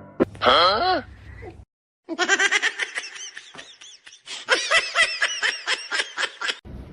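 A short call gliding up and down, then after a brief gap a long run of rapid, high-pitched laughter lasting about four and a half seconds.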